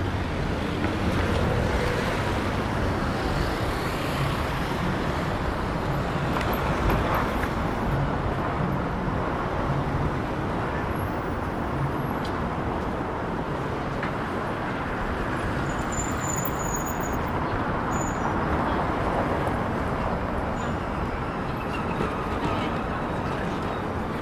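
City street ambience: steady road traffic with passing vehicles, and a few faint high chirps or squeaks around the middle.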